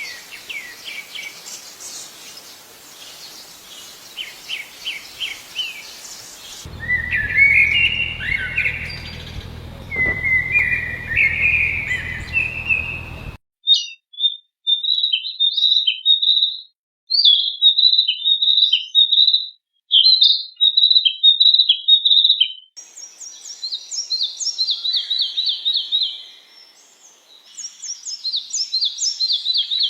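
Songbirds singing in a run of spliced recordings, each cut off abruptly as the next begins: trilled chirp phrases, then sweeping warbled notes over a low hum, then quick bursts of high chirps, then fast descending trills.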